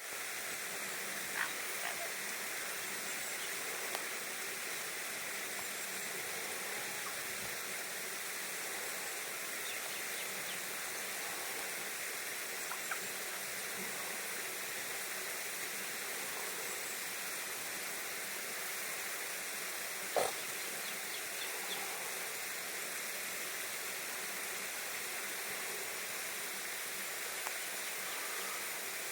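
Steady rushing hiss of outdoor ambience with a few short faint sounds over it, the loudest about twenty seconds in.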